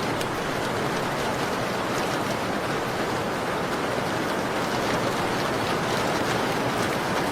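Steady rain falling against a window: a dense, even hiss with scattered faint ticks of individual drops.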